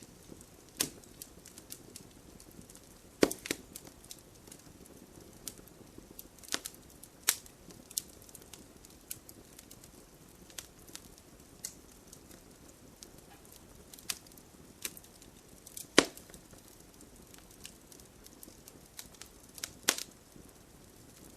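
Burning logs in a campfire crackling: irregular sharp pops and snaps over a low steady hiss, the loudest pops a few seconds in, about three-quarters through and near the end.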